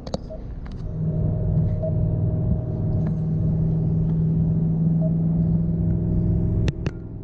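Vehicle engine running steadily with road noise, heard from inside the cab; the hum comes up about a second in and holds, then two sharp clicks near the end as it falls away.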